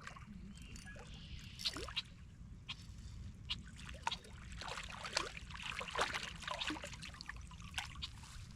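Water splashing and dripping in small, irregular bursts, busiest around the middle, over a low steady rumble.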